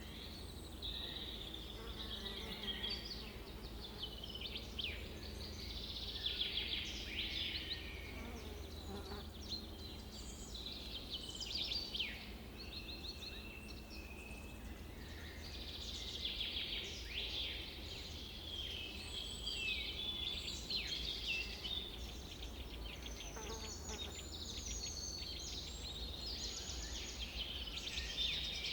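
Several birds singing and chirping at once, a busy chorus of short calls, sweeps and quick trills, over a steady low outdoor rumble.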